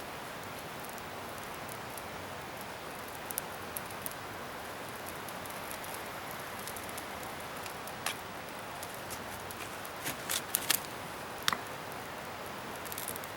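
Wood bonfire burning: a steady hiss with scattered sharp crackles and snaps, most of them in a cluster about two-thirds of the way through.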